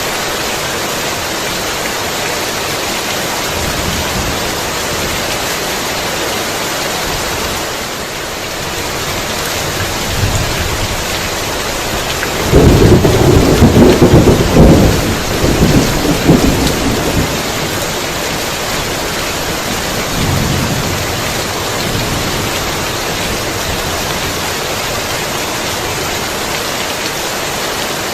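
Heavy, steady rain with a thunderclap about halfway through that breaks suddenly and rolls on for several seconds, with fainter rumbles of thunder before and after it.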